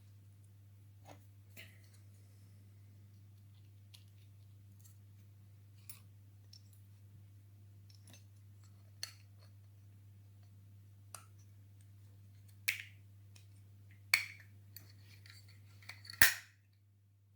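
Small clicks and snaps from hand work on a die-cast model and its small plastic parts: sparse at first, then a few louder sharp clicks in the last five seconds, over a steady low hum.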